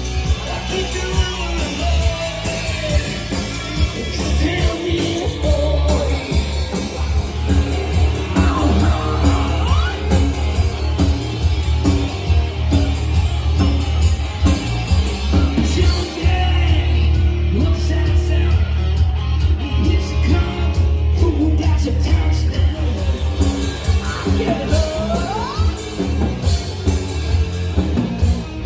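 Live rock band playing loudly, with heavy bass and drums under a lead line of gliding, bent notes and a voice that comes and goes.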